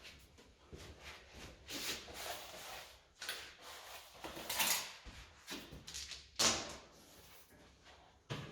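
Irregular scrapes, rustles and knocks of objects being handled and moved, the loudest about six and a half seconds in.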